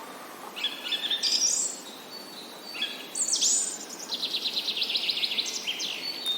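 Songbirds singing: short, high chirping phrases, then a fast, even trill of repeated notes starting about four seconds in.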